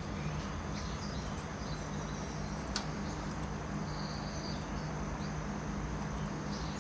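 A few faint, short, high chirps from a caged finch, scattered over a steady background hum and hiss.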